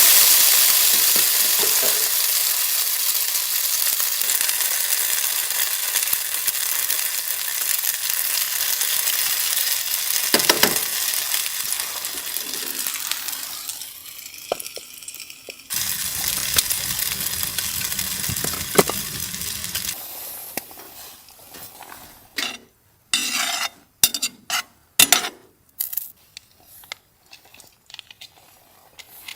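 Food sizzling loudly in a hot frying pan: a sudden burst of sizzle that slowly dies down, then another stretch of sizzling. Near the end come scattered short clinks and knocks of utensils against the pan.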